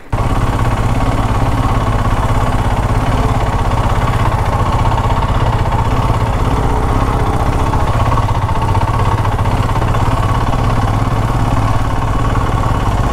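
Royal Enfield Himalayan's single-cylinder engine running at a steady, low speed while the motorcycle rides a dirt track.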